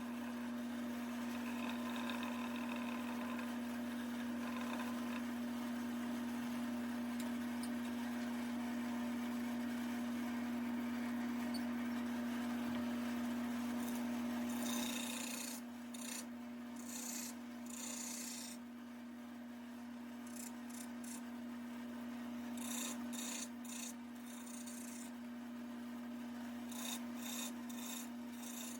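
Wood lathe running with a steady hum while a tool works the spinning walnut leg, a continuous scraping rasp. From about halfway the scraping comes in short repeated passes with pauses between them.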